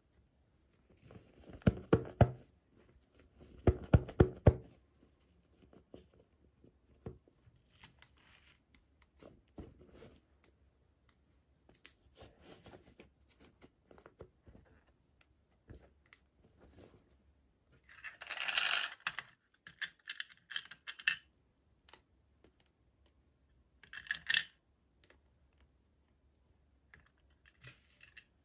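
Toy packaging being opened and handled by hand: scattered sharp clicks and taps of small plastic pieces, with a loud cluster of clicks twice in the first few seconds. There is a rustling, tearing burst a little past the middle and a shorter one later.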